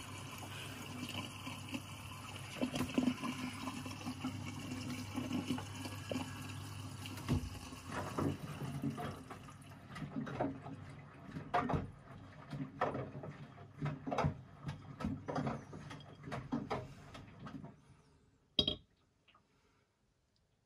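Washing machine taking in water: a steady rush of inflowing water with a low hum that stops about seven seconds in. Irregular splashing and knocks follow. It falls quiet near the end with a single click.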